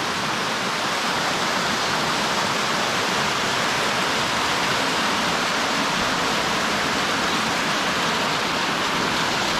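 Creek waterfall rushing steadily, a loud even hiss of falling water with no break.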